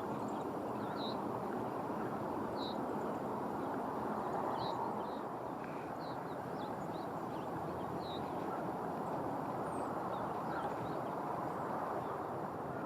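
A small bird giving short, high calls, one every second or two, over a steady rushing background noise.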